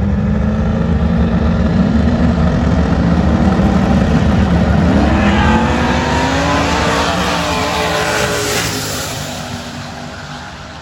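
Race car engine running steadily, then accelerating hard with its pitch climbing, and fading as the car pulls away down the track.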